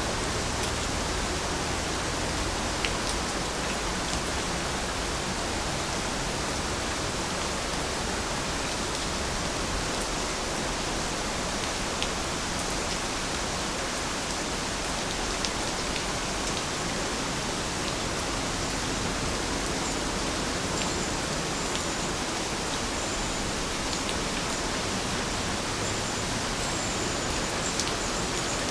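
Heavy rain falling steadily, a dense even hiss with an occasional sharper drop tick.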